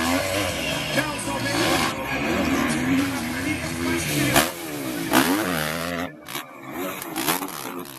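Motocross motorcycle engines revving, their pitch rising and falling repeatedly as the bikes race. The sound thins out and gets quieter about six seconds in.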